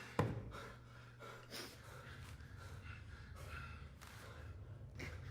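A man's laboured breathing and gasps over a low steady hum, with a brief sharp sound just after the start.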